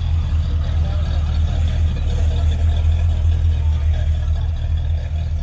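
A vehicle engine running with a steady low rumble, with faint voices in the background.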